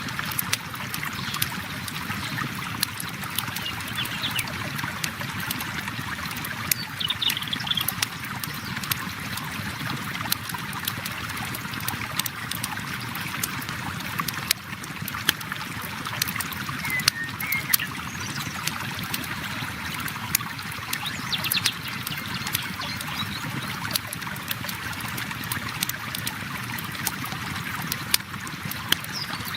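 Flowing river water running steadily under a campfire crackling with frequent sharp pops. A few short bird chirps come and go.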